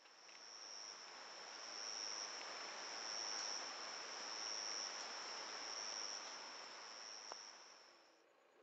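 Faint, even hiss of rain falling on garden plants, with a continuous high-pitched insect trill over it. Both fade in at the start and fade out about eight seconds in.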